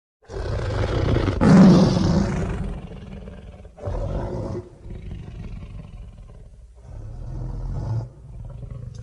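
Dinosaur-like creature sound effect: one loud, long roar starting just after a short silence, followed by three shorter, quieter growling calls.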